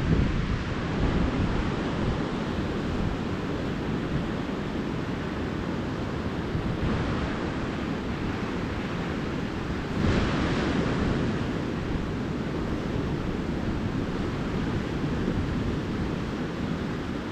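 Calm ocean surf washing onto a beach: a steady rush of water, with a wave breaking more loudly about ten seconds in.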